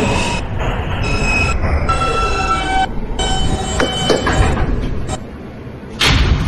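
J subway train running on the rails, a steady rumble with high, shifting wheel-squeal tones. The level dips about five seconds in, then a sudden loud burst of noise comes near the end.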